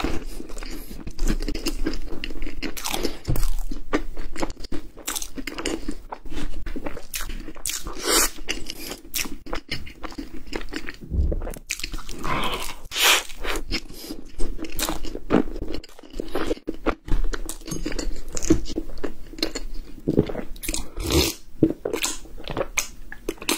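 Close-miked eating: crunchy bites into a chocolate-coated, cream-filled pie, then chewing, with many irregular crackles and clicks.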